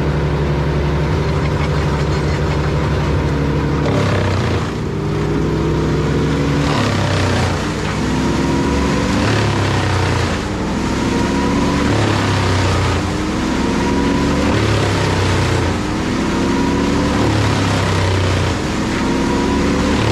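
Wood chipper's diesel engine running under load. After a few steady seconds, its pitch sags and recovers about every three seconds as each piece of wood is fed in and chipped, over a constant crackle of wood being chipped.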